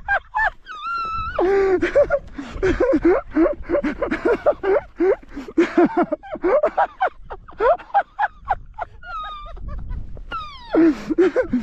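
People's voices: excited exclamations, cries and broken talk that make no clear words, over a low rumble.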